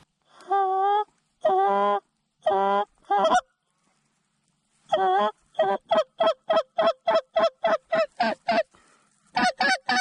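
Mallard duck call blown by a hunter to bring in ducks: four long, loud quacks, a pause, then a long quack leading into a fast run of short quacks at about four a second, with a few more short quacks near the end.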